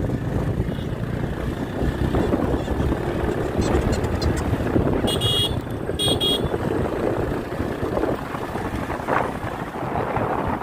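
Motorcycle riding along a road, its engine rumbling steadily under wind noise on the microphone. About halfway through, a horn gives two short beeps about a second apart.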